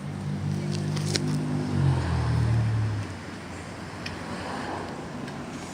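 A car passing by: a low engine hum that drops in pitch about two seconds in, then fades away about a second later. A few faint clicks.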